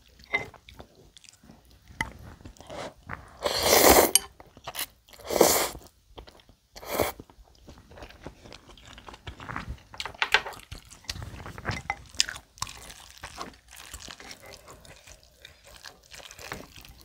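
Close-miked eating of noodles and bibimbap: chewing and mouth sounds, with three louder bursts of noise about four, five and a half and seven seconds in, then many short, quieter clicks and smacks.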